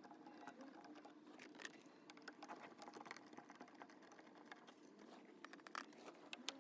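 Near silence with faint, scattered light clicks and taps at an irregular pace.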